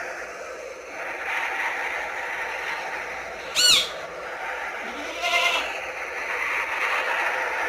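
Two short animal calls over a steady rushing noise: a brief, loud call that rises and falls in pitch about three and a half seconds in, then a wavering call about two seconds later.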